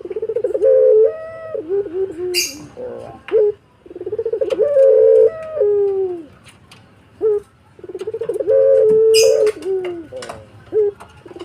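Puter dove (domestic ringneck dove) cooing: three long coos, each opening with a quick stutter and then a held note that steps up and then drops lower. Sharp clicks and two brief hissy bursts come between the coos.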